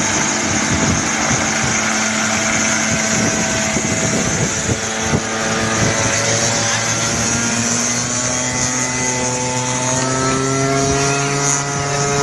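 Small aircraft's propeller engine running steadily, its pitch rising gradually over the second half as it revs up.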